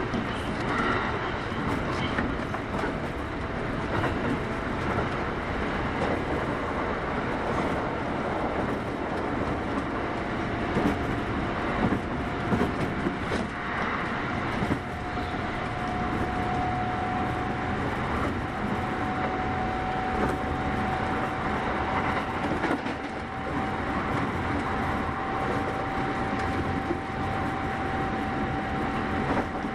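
Kintetsu 8810 series electric train running, heard from inside the passenger car: a steady rumble and rush of running noise with a thin whine that slowly rises in pitch.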